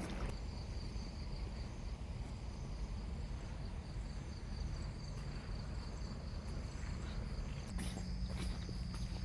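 Insects trilling steadily in a high, thin, unbroken tone over a low steady rumble, with a few short knocks near the end.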